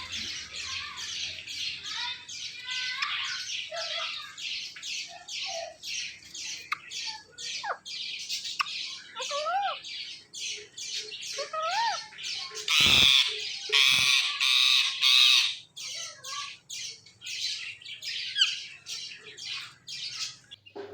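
Male ringneck parrot screeching in a long run of short, harsh calls, about three a second, with a few brief whistled glides mixed in. A little past the middle there are several louder, harsher screeches.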